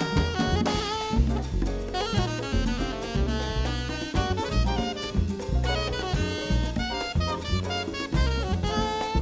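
A live jazz group playing: a saxophone runs fast melodic lines with bent notes over a busy drum kit and low bass notes.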